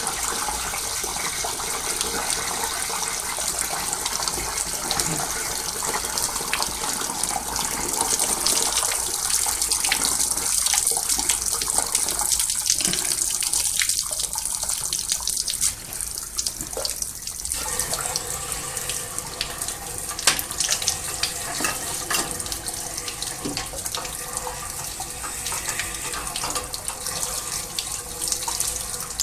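Water from a hose flushing through the sections of a steam boiler, a steady rush of spraying and draining water that dips briefly in the middle. The washout is flushing oil and black sludge out of the boiler.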